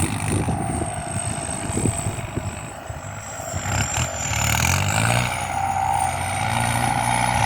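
Kubota M8808 tractor's turbocharged diesel engine working under ploughing load, with a high, steady turbo whistle above it. About five seconds in, the engine note climbs and holds higher.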